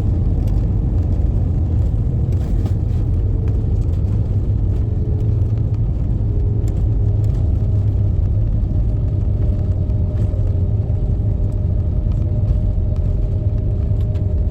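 Steady low rumble of a jet airliner's cabin, with the engines and air conditioning running. Faint steady hum tones lie over it, and one changes pitch about halfway through.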